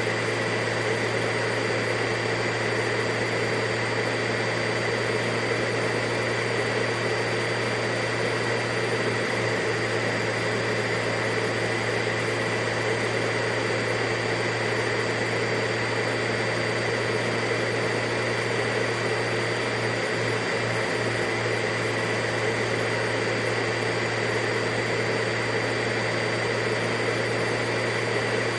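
Vacuum cleaner motor running steadily: an even rushing of air with a constant motor hum and a steady high whine.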